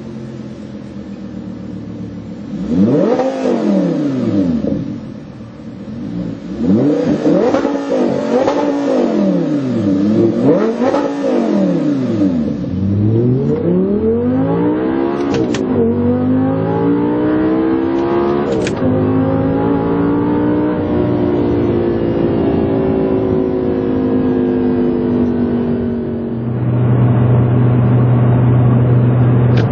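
Audi R8 V10 engine through an AWE Tuning SwitchPath aftermarket exhaust, revved in about four quick blips that rise and fall in pitch. It then runs through longer, slower rises and falls with two short sharp pops, and settles into a louder, steady low note near the end.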